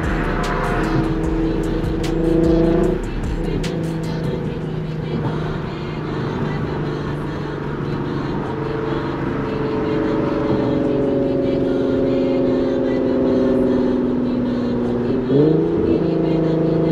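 Infiniti Q50's V6 with an aftermarket cat-back exhaust and resonated test pipes, running steadily on the move, then rising briefly in a short rev about fifteen seconds in. A music beat plays underneath.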